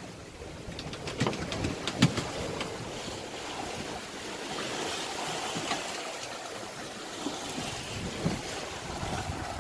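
Sea water washing and splashing against a sailboat at sea, with wind on the microphone, a swell of rushing water through the middle, and a few sharp knocks about one and two seconds in.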